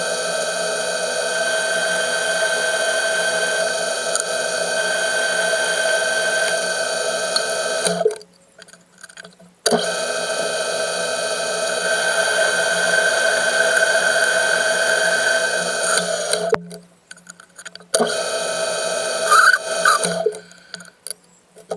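A metalworking machine tool's motor running with a steady whine. It stops abruptly and starts again twice.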